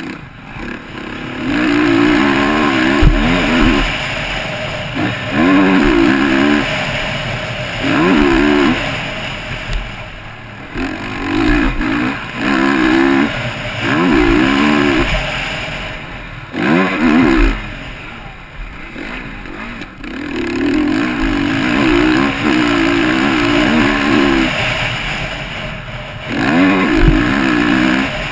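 Motocross bike engine heard from the rider's own camera, opened up in repeated short bursts of throttle that climb in pitch and then drop off, about a dozen times, with a few low thumps along the way.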